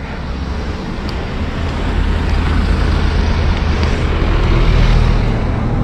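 Riding noise on an electric bicycle climbing a road: a steady deep noise of wind on the microphone and road, growing louder over the first few seconds.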